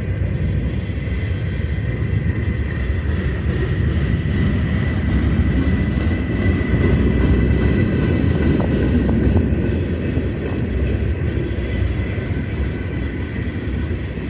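Freight train cars rolling past, a steady low rumble of wheels on the rails, loudest about halfway through, with a thin, steady high-pitched tone over it.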